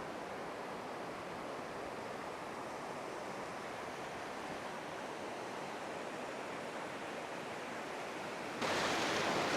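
Steady wash of small waves breaking on a sandy beach, a calm sea. It gets suddenly louder near the end.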